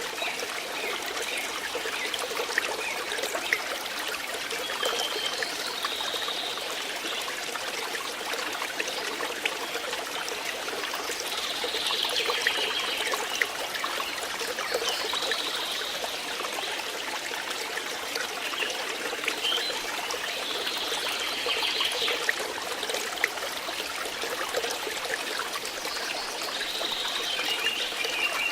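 Flowing water trickling steadily, with brief brighter swells higher up every few seconds.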